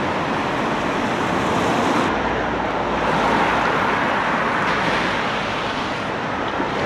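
Steady noise of road traffic passing close by, a continuous wash of tyres and engines.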